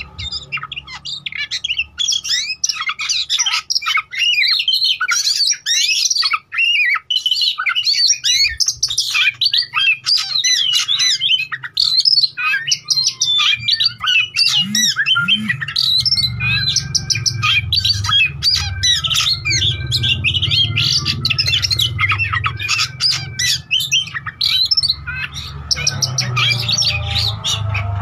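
Oriental magpie-robin (kacer) in full, continuous song: a dense, rapid stream of varied whistles, chirps and harsh squawky notes. It is the bird's 'gacor' singing, used as a lure to prompt other magpie-robins to sing and respond.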